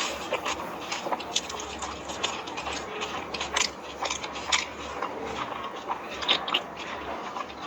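Crunching and chewing of crisp, hollow pani puri shells, a run of irregular sharp crunches, several a second.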